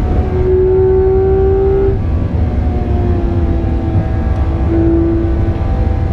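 Porsche 991.2 GT3 RS's 4.0-litre flat-six at high revs, heard from inside the cabin, holding a near-steady pitch with a brief break about two seconds in and a small step down near five seconds. A heavy low rumble runs underneath.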